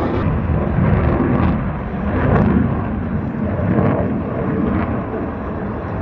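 Blue Angels F/A-18 fighter jets flying the display, heard as a loud, continuous jet rumble that swells and eases slightly.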